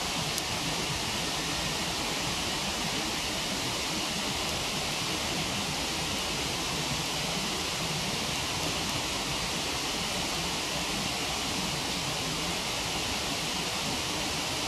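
Steady rushing of a waterfall, an even wash of falling water with no change in level.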